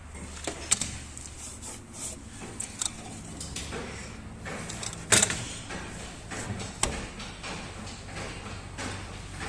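Irregular knocks and clicks of handling and impacts, with one loud bang about five seconds in, over a low hum.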